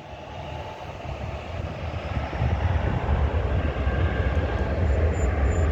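Jet airliner's engines, a low rumble that builds louder over the first couple of seconds and then holds steady.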